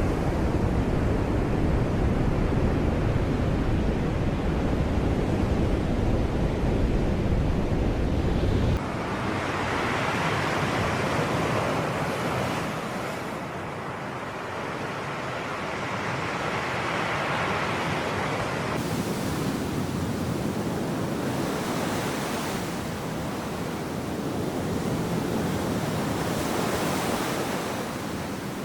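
Sea waves washing on the shore, with wind rumbling on the microphone for about the first nine seconds. The sound then changes abruptly to surf that swells and recedes in slow surges.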